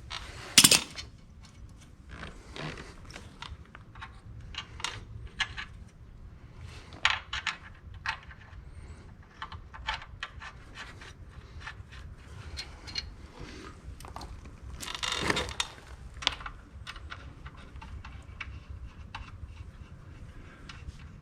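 Wrenches and steel bolts clinking and scraping while the clutch housing bolts are run in and snugged down: scattered light metallic clicks, a sharp clank about half a second in, and a longer scraping stretch about fifteen seconds in.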